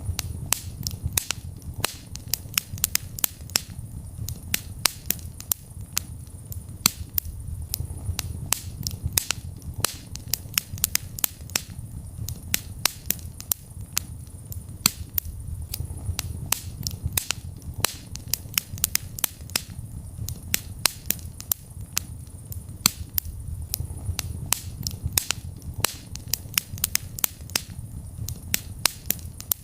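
Wood fire burning in a fireplace, crackling with sharp irregular pops several times a second over a low rumble of flame.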